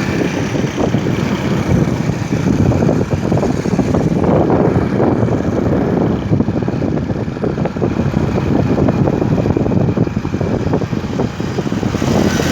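Motorcycle running steadily while being ridden.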